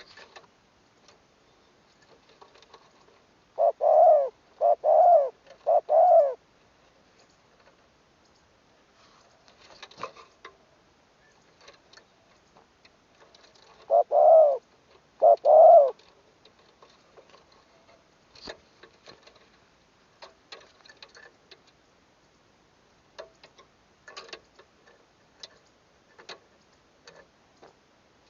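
Spotted dove cooing: a three-note coo about four seconds in and a two-note coo about ten seconds later, with faint scattered clicks between the phrases.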